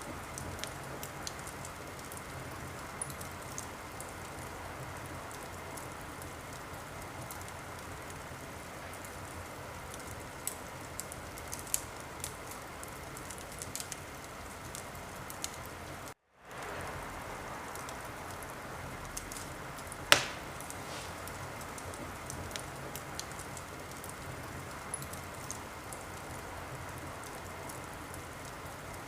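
Wood fire in a fireplace crackling: a steady hiss with scattered sharp pops and one louder crack about twenty seconds in. The sound cuts out for a split second around sixteen seconds in.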